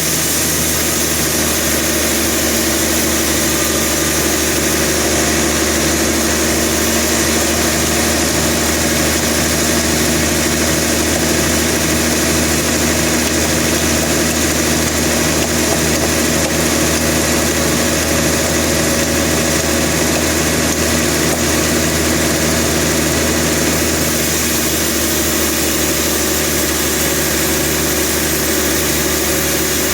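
Sawmill machinery running steadily, an engine-like drone that holds the same pitch and level throughout.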